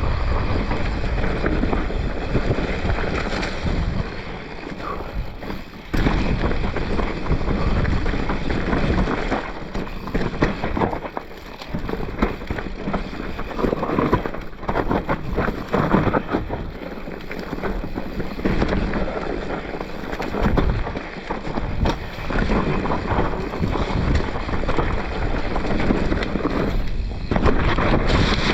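Mountain bike descending fast over rough dirt single track: wind rushing over the microphone, tyres rumbling on the dirt, and the bike rattling with sharp knocks over roots and ruts, the noise surging and easing with speed.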